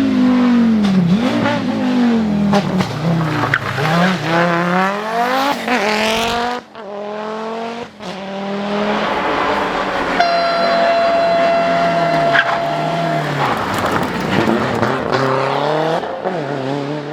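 Rally car engines at full throttle, revving up and dropping back several times as they accelerate and shift or brake, with a sudden cut between clips partway through. A steady high-pitched tone sounds for about three seconds in the middle, over the engines.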